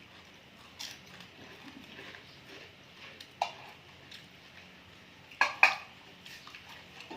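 Tableware clinking lightly a few times, scattered single clicks, then a louder pair close together about five and a half seconds in.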